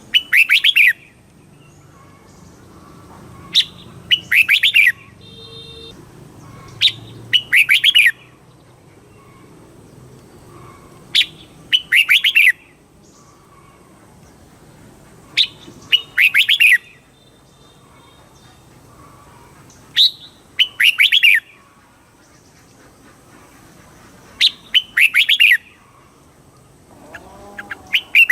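Red-whiskered bulbul singing: short, loud song phrases repeated about every four seconds, seven in all. Each phrase is a quick high note followed by a rapid run of warbling notes.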